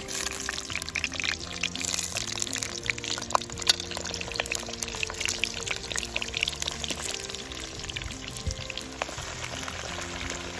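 Meat frying in a kazan, a cast-iron cauldron, over a campfire: a steady sizzle with many small sharp crackles. Background music plays along with it.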